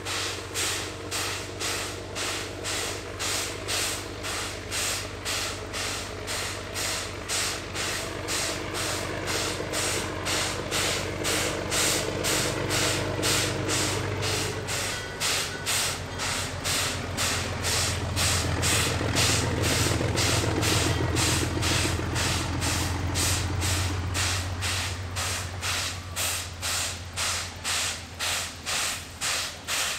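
Locomotives at a meet on a narrow-gauge line: an even, repeating pulse about one and a half to two times a second, with a low engine hum that swells about halfway through and eases off near the end.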